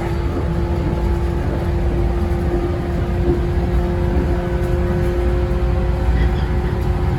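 Inside a JR 115 series electric train running at a steady speed: a low rumble from wheels and track with a steady whine held throughout.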